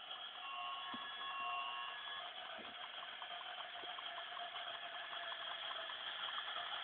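Battery-powered toy train running on its track: a steady small-motor whir with a run of light, regular clicks from the wheels and track.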